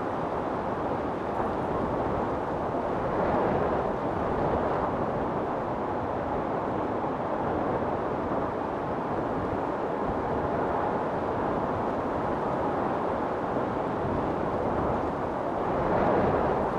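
Wind storm blowing as a steady, loud roar, swelling in gusts about three seconds in and again near the end.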